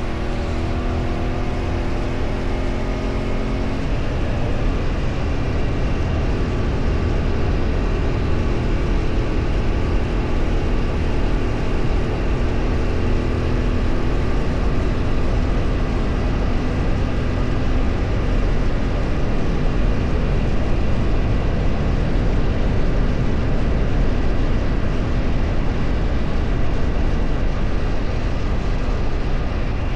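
Motor vehicle under way: an engine running with steady wind and road rumble. In the first few seconds a pitched engine tone drifts slowly, then it sinks into the even rumble.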